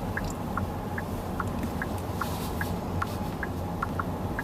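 Low, steady road and tyre rumble inside the cabin of a QIANTU K50 electric car on the move, with no engine note. A light, even ticking runs over it, about two to three ticks a second.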